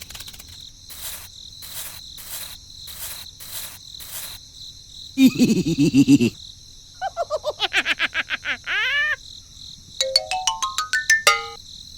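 A string of edited-in cartoon sound effects: about four seconds of cricket chirps, about two a second, over a steady high tone, then a short low burst near the middle. After that comes a quick run of pitched plinks, and near the end a rising run of notes like a climbing scale.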